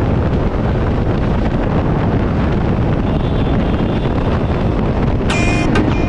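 Wind buffeting the microphone with motorcycle engine and road noise, steady and loud, while riding at highway speed.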